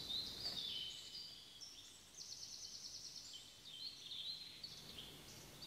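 Faint birdsong: scattered high, thin notes and a short rapid trill about two seconds in, over a quiet background hiss.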